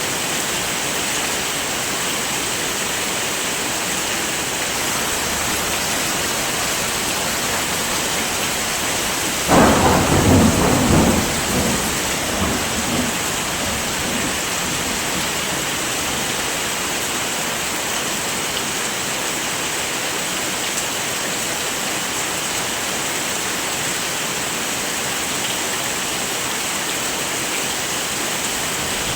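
Heavy rain falling steadily. A sudden clap of thunder about nine and a half seconds in, which rumbles and dies away over about three seconds.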